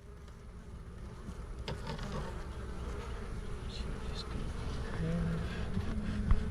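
Honeybees buzzing around an open top bar hive, with single bees droning close by near the end. A click about two seconds in and a short knock near the end.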